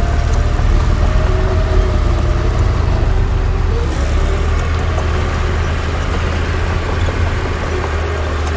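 Heavy diesel earthmoving machinery running steadily: a deep, continuous engine rumble with faint wavering whines above it.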